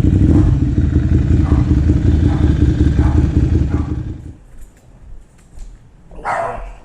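Ducati Monster 795's engine running through a full titanium YRS exhaust, steady and loud, then cut off about four seconds in. A brief loud sound follows near the end.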